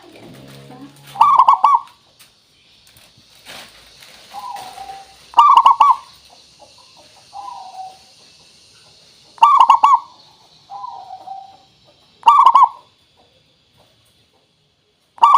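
Zebra doves (perkutut) cooing. A loud burst of quick staccato coo notes comes about every three to four seconds, with softer, lower coos in between.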